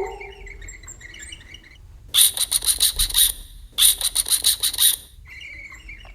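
Bird calling: soft chirping throughout, broken twice by loud bursts of rapid, high-pitched chattering calls, each lasting about a second.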